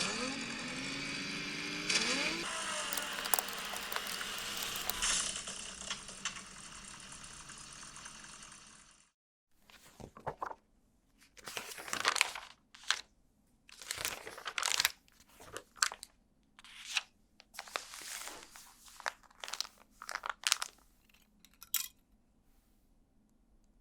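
A steady rushing noise with a rising tone in its first couple of seconds, fading away and stopping about nine seconds in. Then a series of short bursts of plastic crinkling and crunching, like LEGO parts bags being handled and torn open.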